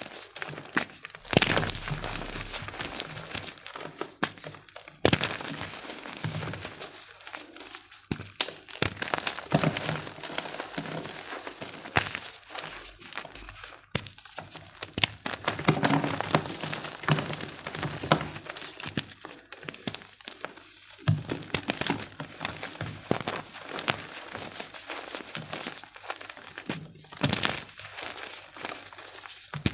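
Blocks of gym chalk being crushed and crumbled by hand: a continuous dry, crunchy crackle with sharper snaps every few seconds as pieces break apart.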